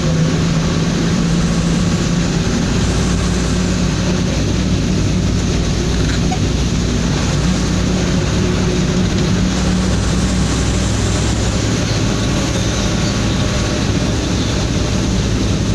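Truck engine running steadily under loud road noise on a highway at speed. Its hum shifts pitch about three seconds in and again about ten seconds in.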